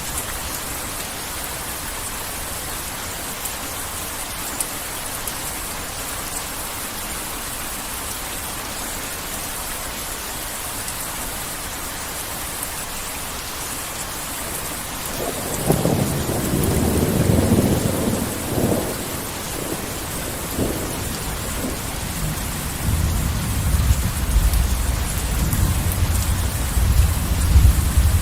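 Heavy rain falling steadily, with a roll of thunder rumbling in about halfway through and a second, lower rumble building toward the end.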